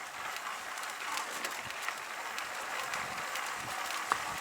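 Mountain bike riding over a dirt and gravel trail: a steady crackling hiss of tyres on the ground, with scattered small clicks and rattles and one sharper click near the end.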